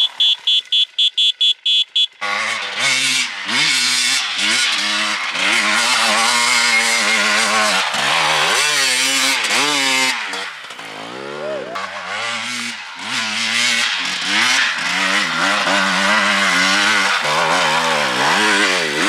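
Enduro motorcycle engine revving up and down over and over as the rider works the throttle, easing off for a few seconds about halfway through. It opens with a quick run of short high-pitched beeps.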